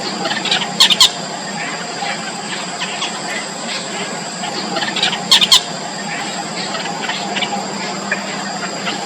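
Begging calls of four-day-old nestlings: faint squeaky cheeps throughout, with a loud high double squeal about a second in and another a little after five seconds. A steady high-pitched background tone runs under them.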